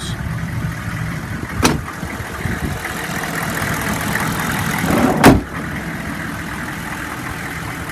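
The 2002 Chevy 3500's 6.5-liter diesel V8 idling steadily. A sharp click comes about two seconds in, and a loud thump about five seconds in.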